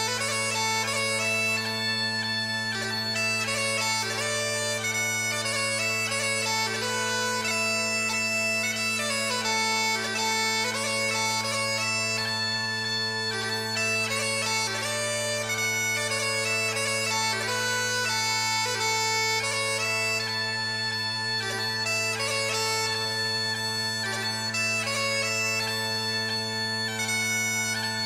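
Bagpipe music: a piped melody played over steady, unbroken drones.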